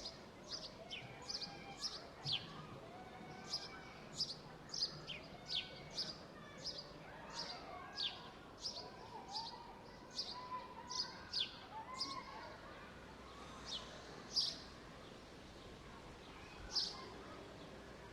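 Small birds chirping in a park: short, sharp, high chirps that sweep downward, repeated one or two a second and growing sparser after about twelve seconds, over a steady outdoor background hum.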